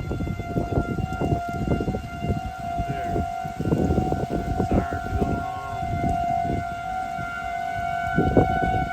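Tornado warning siren holding one steady tone, with heavy irregular low buffeting noise beneath it.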